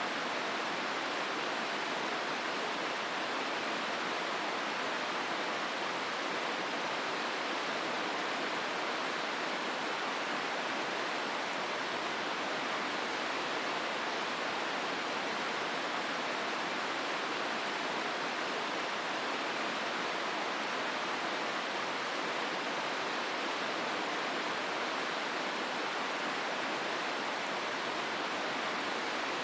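The Hozu River rushing through its rocky gorge: a steady, even wash of water with no change in level.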